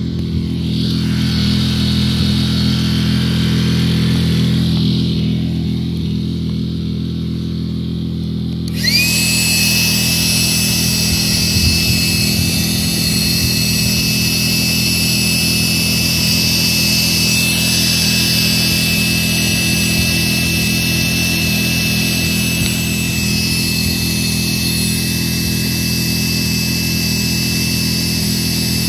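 A small motor-driven machine running steadily, most likely a blower used to fan the fire. About nine seconds in, a high whine rises in sharply as it speeds up, and it holds there.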